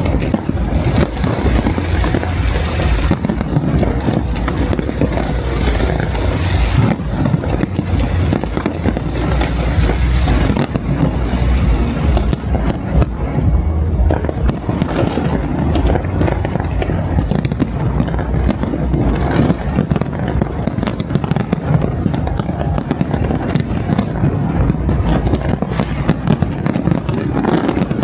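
Dense, continuous barrage of fireworks bursting, many explosions overlapping with no gaps, with music playing along underneath.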